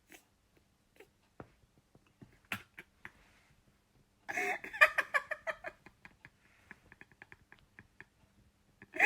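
A cat meows once, a loud drawn-out call about four seconds in, followed by faint scattered ticks.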